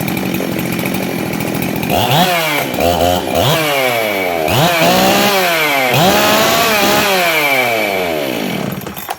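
Husqvarna 372XP two-stroke chainsaw, fitted with an upgraded ignition and exhaust, running steadily. About two seconds in it begins to be revved hard over and over, each rev climbing quickly and then falling back, about half a dozen times before the sound drops away near the end.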